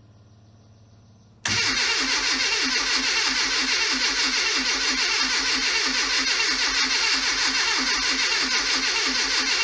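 Classic Mini's rebuilt A-series engine being cranked on the starter motor in a first attempt to start it, with a steady pulsing of about four to five beats a second. The cranking begins suddenly about a second and a half in and does not let up.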